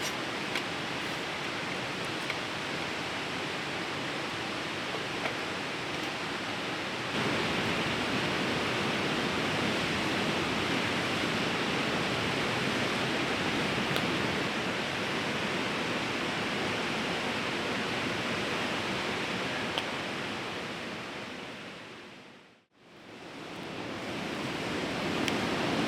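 Steady rushing of a fast-flowing river, with a few faint ticks over it. It gets a little louder about a quarter of the way in, then fades briefly to silence near the end and comes back.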